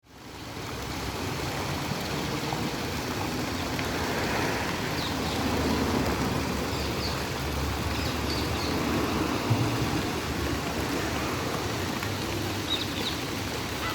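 Running water, a steady rushing that fades in at the start, with a low rumble underneath and a few short high chirps.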